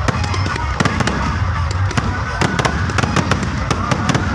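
Fireworks going off: a rapid, irregular string of sharp cracks and pops, several a second, over a steady low background din.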